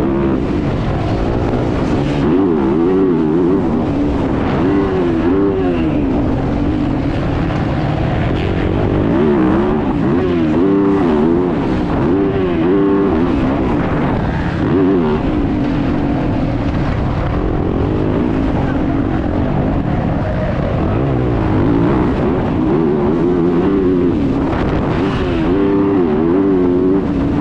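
Motocross bike engine heard close on board, its revs rising and falling over and over as the rider throttles and shifts around the track, with wind and rough noise throughout.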